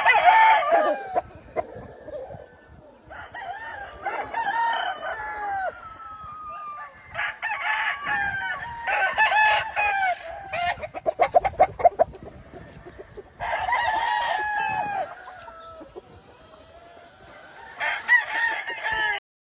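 Gamefowl roosters crowing, a string of long crows one after another, some overlapping, with a quick run of rapid pulses about eleven seconds in. The sound cuts off abruptly near the end.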